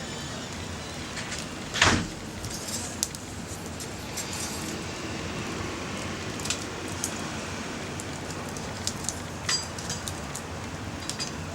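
Small wood fire in a compact grill, hissing steadily with scattered sharp crackles and pops, and one loud knock about two seconds in.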